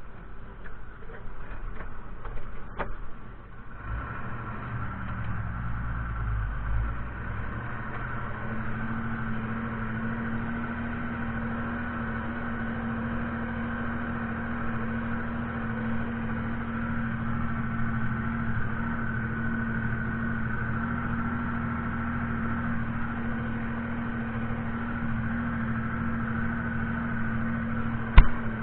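Fiatagri 130-90 tractor's diesel engine running steadily, its low rumble shifting during the first few seconds and then settling into an even hum. A sharp click sounds near the end.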